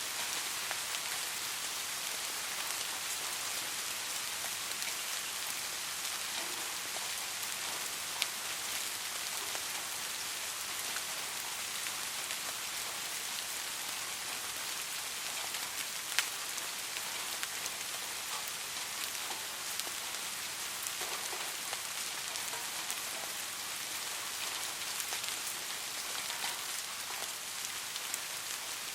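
Steady rain falling on a surface, an even hiss with scattered individual drops ticking sharply, two louder ones about eight and sixteen seconds in.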